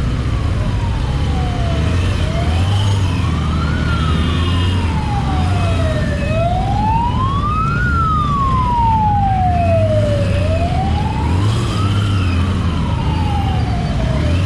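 Emergency vehicle siren wailing, its pitch rising and falling slowly about once every four seconds, over a steady low engine rumble.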